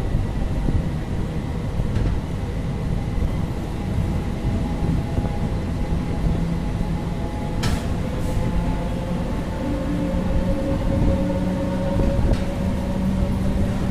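Passenger train rumbling steadily as it pulls out of the station, heard from aboard the coach, with a faint steady hum in the running noise and two sharp clicks about eight seconds in.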